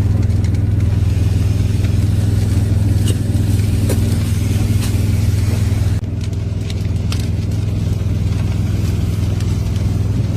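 A motor vehicle engine running steadily, a loud low hum, with scattered sharp ticks over it; the sound changes slightly at a cut about six seconds in.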